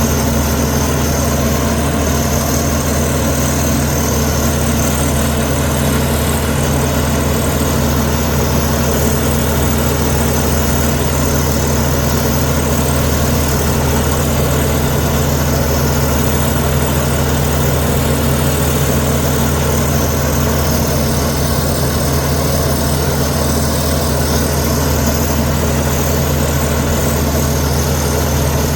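Heavy diesel engine of earthmoving machinery running at a steady, unchanging speed: a loud, even low drone with no revving or knocks.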